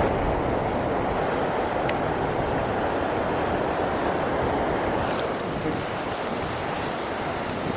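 Surf washing on a beach, mixed with wind blowing across the microphone: a steady rush that eases slightly about two-thirds of the way through.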